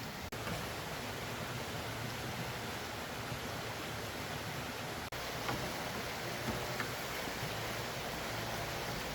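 Steady, even hiss of outdoor background noise that breaks off for an instant twice, like edit cuts.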